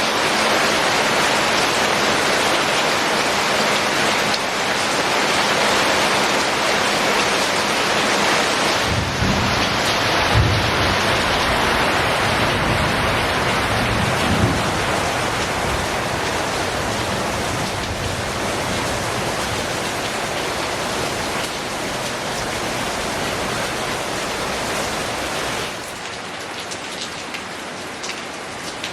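Heavy rain falling steadily, a dense even hiss. Between about nine and fifteen seconds in, a low rumble swells beneath it, peaking twice. Near the end the rain turns quieter.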